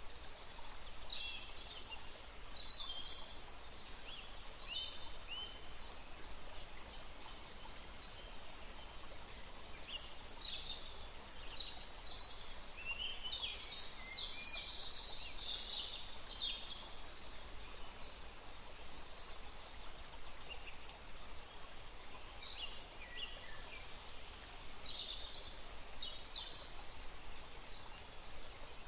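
Several small songbirds chirping and trilling in short bursts, busiest about a third of the way in and again near the end, with a lull in the middle. Under them runs a steady, even hiss of ambient outdoor noise.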